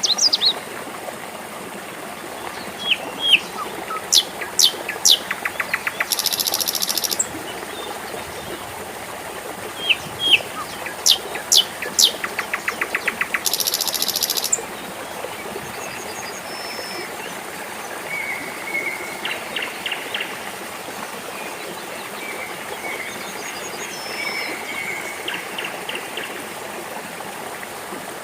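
Water trickling steadily, with birds calling over it: two bouts of sharp falling whistles, each followed by a fast buzzy trill, in the first half, then fainter, softer chirps.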